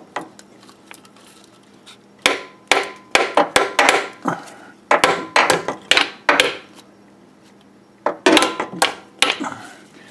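Hammer strikes on a grinder wire wheel used as a makeshift seal driver, tapping a new front crankshaft seal into the engine's front cover. The sharp metallic knocks come in several quick bursts, with pauses between them.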